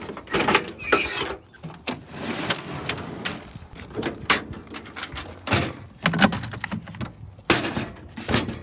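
Irregular knocks, clanks and clicks of parts and tools being handled, with a stretch of scraping or rustling about two to three seconds in, as work begins on swapping a forklift seat.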